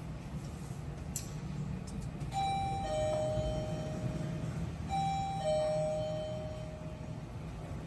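Electronic two-tone ding-dong chime, a higher note then a lower one, sounding twice about two and a half seconds apart, over a steady low background rumble.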